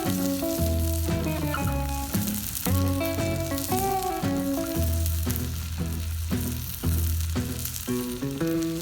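Beef steak sizzling in an iron frying pan over a campfire, a steady hiss that starts suddenly, with background music over it.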